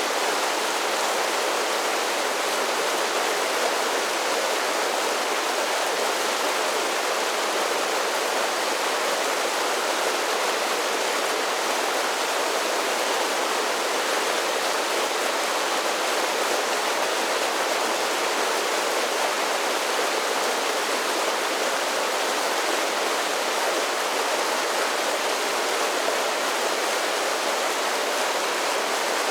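A series of small waterfalls on a mountain creek, water cascading in a steady, even rush with little deep rumble.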